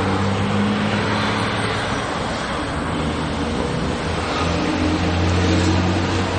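An engine running with a steady low hum that eases a little midway and comes back stronger near the end, over a constant rushing noise.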